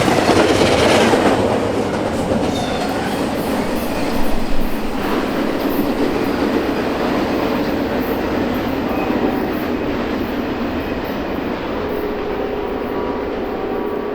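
Norfolk Southern intermodal freight train rolling past at speed close to the microphone: a loud, steady rush of wheels on rail, loudest in the first couple of seconds and then holding on as the cars go by.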